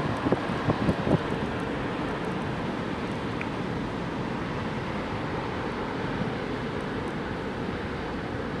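Electric freight train passing close by, its wheels knocking several times in quick, uneven succession in the first second, over a steady noise of wind on the microphone.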